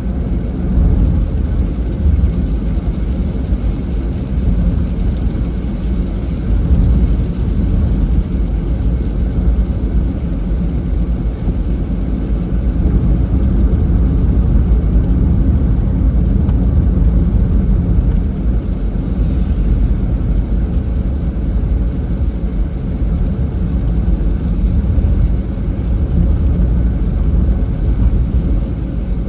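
Steady low rumble of a car driving in the rain: tyre, road and engine noise, with no sharp events.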